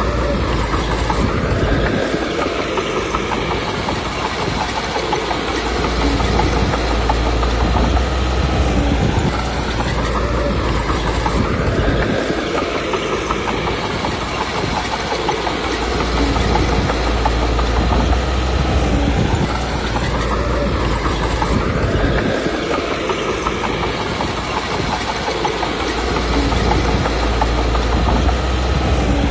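Komatsu D21P bulldozer's diesel engine working hard, its note rising and falling every few seconds, with the steel tracks clattering.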